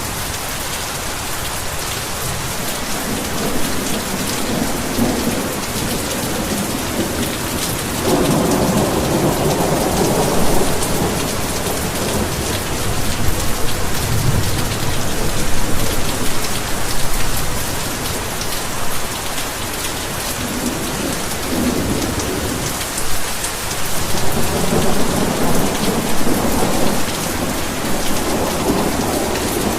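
Heavy rain falling steadily, with low rolling rumbles of thunder that swell about eight seconds in and again near the end.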